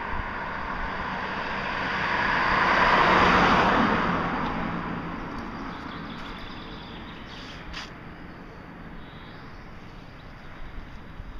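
A road vehicle passing by: its noise swells to a peak about three seconds in, then slowly fades away.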